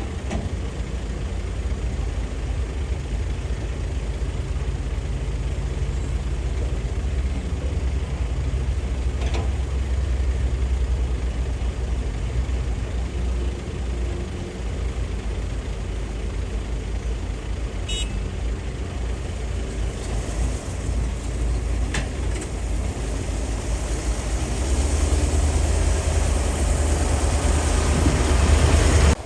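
Hydraulic excavator's diesel engine running steadily with a low drone while loading dirt, growing louder over the last few seconds. A couple of sharp knocks come about two-thirds of the way in.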